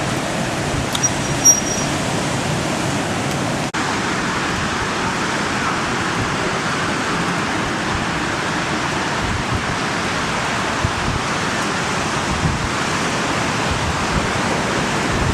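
Steady rushing noise of riding along on a KMX trike, mostly wind on the microphone, with a brief dropout about four seconds in.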